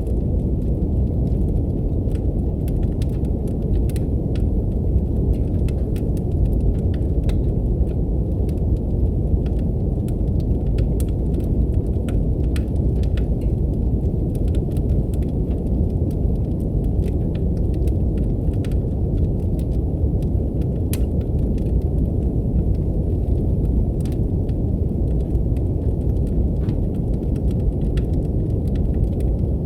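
Steady deep brown noise mixed with a wood fire crackling and popping in a fireplace, scattered sharp crackles over the low rumble.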